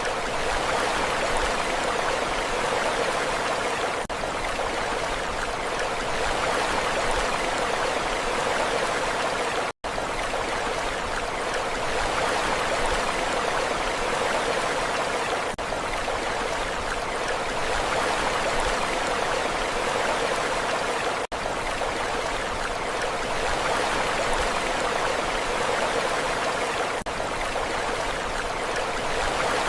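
Steady rushing water noise from a sleep-sounds recording, running without let-up. It cuts out for an instant twice, near 10 seconds in and again around 21 seconds.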